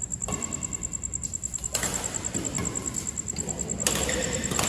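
A few sharp hits of pickleball paddles on the ball during a rally, the loudest about four seconds in, over a steady high pulsing trill like insects.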